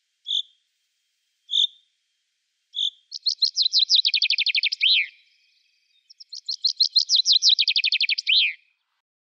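A bird singing: three single high chirps about a second apart, then two fast trills of rapidly repeated notes, each trill ending in a downward slur.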